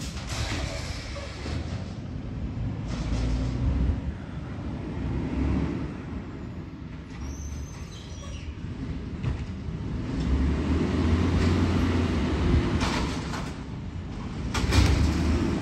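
Garbage truck's diesel engine running with a low rumble, broken by several short hisses of air, near the start, about three seconds in and twice near the end.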